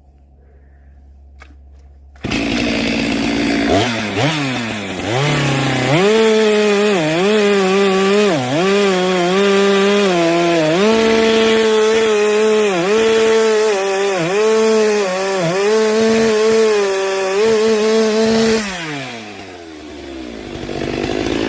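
Chainsaw starting suddenly about two seconds in and revving up to high speed. It holds there with repeated brief dips in pitch as it bites into a log, then winds down near the end before picking up again.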